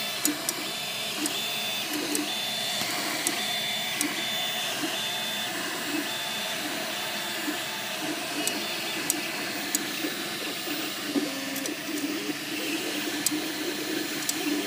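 MakerBot Replicator 2 3D printer running, its stepper motors whirring in short tones that keep changing pitch, with scattered sharp clicks and a high-pitched tone pulsing on and off in the first half. This is the clicking and squeaking noise that the owner traces to the side opposite the motors.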